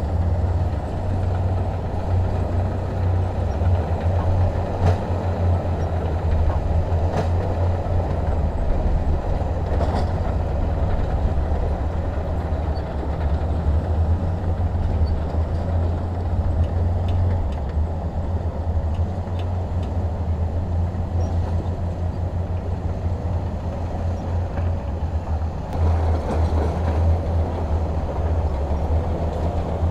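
Heavy diesel engine running steadily with a deep low rumble, with a few faint clanks in the first ten seconds.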